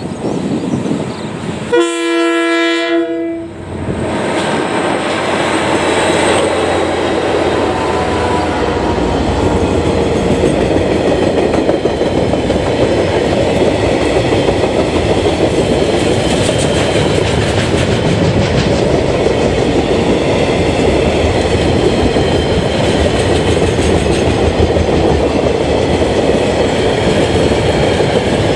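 Freight train: one horn blast of about a second and a half, about two seconds in, then the steady rumble and clatter of a long train of loaded log wagons rolling past on the rails.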